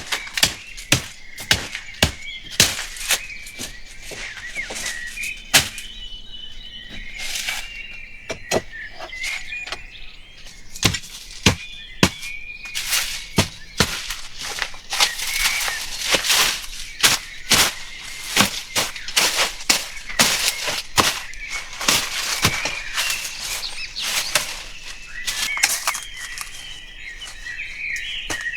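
A run of sharp, irregular knocks, at times about two a second, with birds chirping and whistling behind them.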